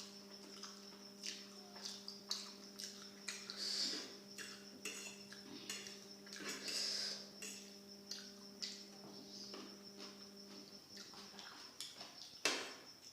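Cutlery clicking and scraping against a plate during eating, in scattered irregular clinks, with one louder clink near the end.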